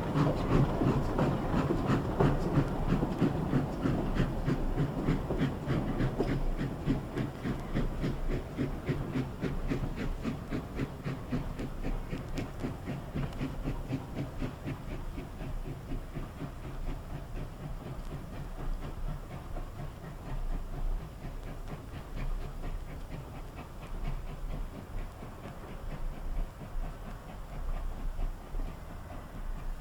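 GWR 6400 class 0-6-0 pannier tank steam locomotive no. 6412 running with a rapid, even beat and some steam hiss, the sound gradually fading.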